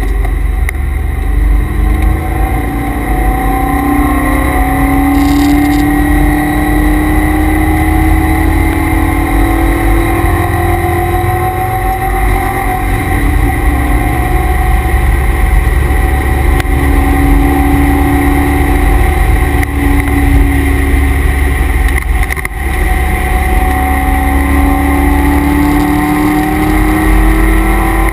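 C5 Corvette Z06's LS6 V8 at full throttle on track, heard from inside the cabin. Its pitch climbs in long pulls that break and drop at gear changes or lifts, over heavy road and wind rumble. A steady high whine runs underneath, which the owner puts down to the noisy transmission and differential coolers.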